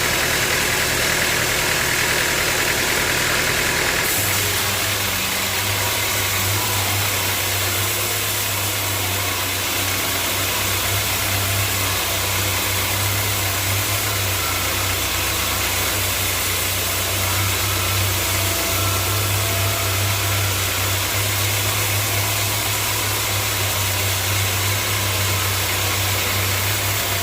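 Sawmill machinery running steadily, with a deeper hum coming in about four seconds in and holding.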